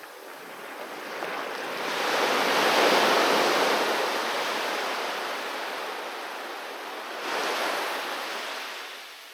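Ocean waves breaking on a beach: one wave swells and crashes about two seconds in, washes back, and a smaller second wave breaks near the end.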